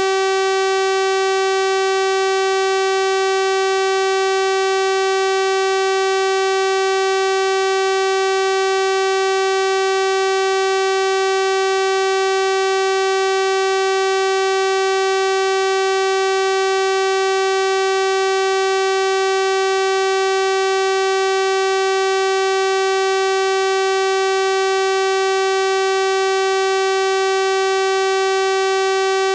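A steady synthesized 384 Hz sawtooth-wave tone, a bright buzzy hum held at one pitch and level without a break.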